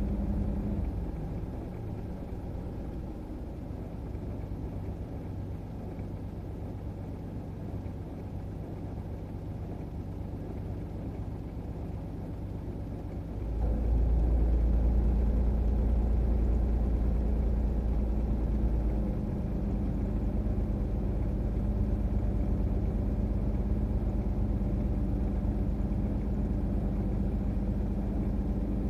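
Truck engine left idling, a steady low hum. About halfway through, a deeper, louder rumble comes in, easing back a few seconds later to a steady idle.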